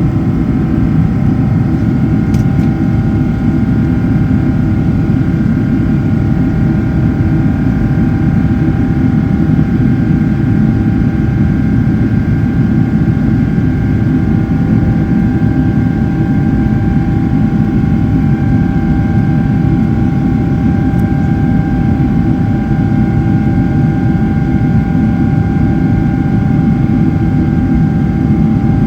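Boeing 777-300ER's GE90-115B turbofan engines in flight, heard from inside the passenger cabin: a steady, loud rumble with several steady whining tones on top.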